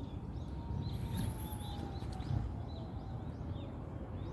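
Small birds chirping, many short calls one after another, over a steady low outdoor rumble, with a faint tone slowly falling in pitch.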